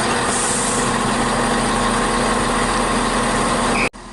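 Class 170 Turbostar diesel multiple unit's underfloor diesel engines running steadily at the platform, loud and close with a low hum. The sound cuts off suddenly near the end.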